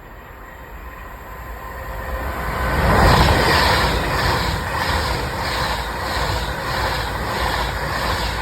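Class 390 Pendolino electric train passing at speed: its rail noise grows as it approaches, is loudest about three seconds in, then pulses regularly as each carriage's wheelsets go by, fading just at the end.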